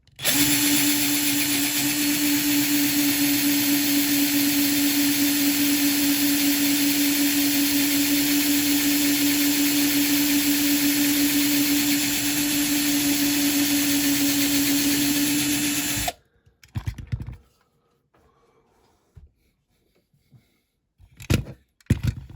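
Power drill running at one steady speed, drilling into the diecast rivet post of a Dinky Toys Ford Transit van's base plate; it stops abruptly after about sixteen seconds. A few light clicks and knocks follow near the end.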